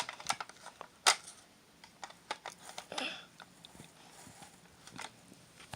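Light plastic clicks and taps from a toy recycle truck being handled, with one sharper knock about a second in.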